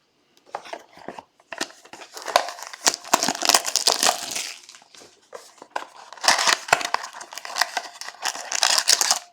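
Trading-card box packaging being torn open and handled: irregular crinkling, tearing and rustling of wrapper and cardboard.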